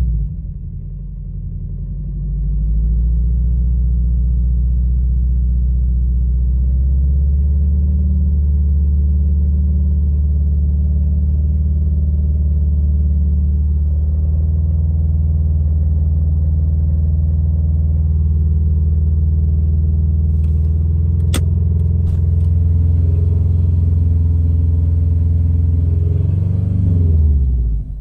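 2015 Subaru WRX STI's turbocharged 2.5-litre flat-four engine running at a steady speed, with one sharp click about three-quarters through and a brief rise in revs near the end. The engine has developed a strange rattle that the owner suspects is rod knock.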